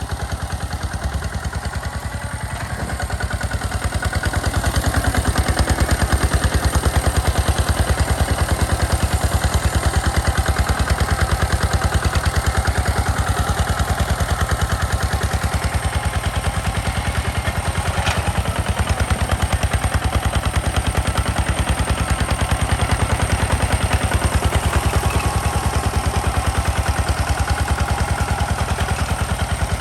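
Two-wheel hand tractor's single-cylinder diesel engine running steadily with a fast, even chugging, growing louder about four seconds in.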